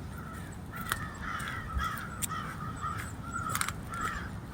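Birds calling outdoors: a rapid series of short, harsh calls, with a few sharp crunches standing out above them.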